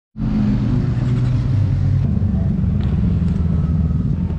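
Honda NC750X's 745 cc parallel-twin engine running, with a low, steady note that drops and then rises in pitch around two seconds in.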